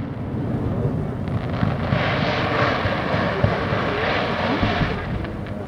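Fireworks display: a hissing shower swells about two seconds in and fades out by about five seconds, over a low rumble with scattered dull thumps.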